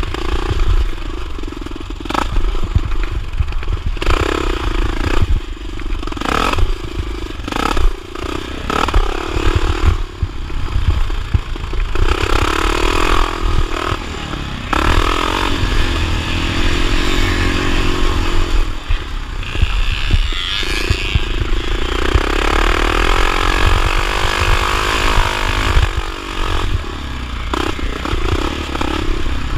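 1979 Honda XR500's single-cylinder four-stroke engine run hard in a motocross race, revving up and dropping back over and over, with a constant low rumble underneath.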